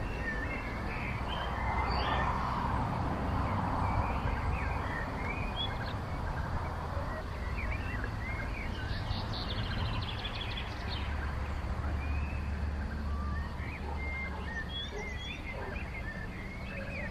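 Several songbirds calling and singing at once: scattered short chirps and whistles, with a fast trill about nine seconds in, over a steady low hum.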